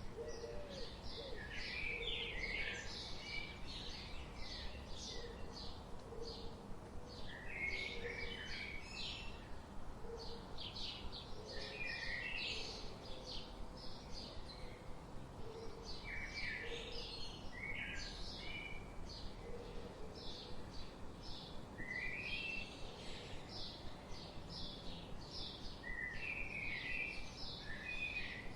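Forest birdsong: several birds chirping rapidly and singing short, quick phrases throughout, with a lower, quieter call repeating every second or two underneath.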